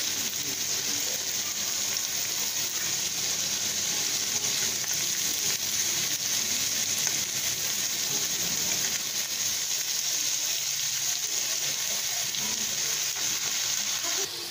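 Strips of pointed gourd and potato sizzling steadily in hot oil in a wok, with a metal spatula stirring and scraping through them. The sizzle drops off abruptly just before the end.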